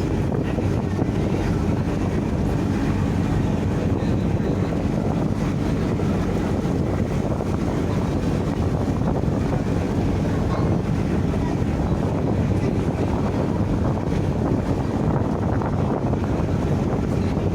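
Steady drone of a ship's engine while under way, mixed with wind blowing on the microphone.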